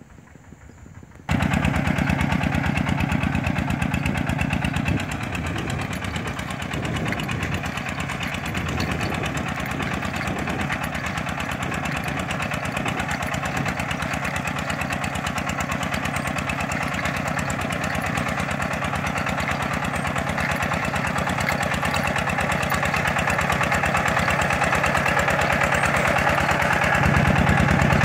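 Tractor engine running steadily with a fast, even firing rhythm, cutting in suddenly about a second in.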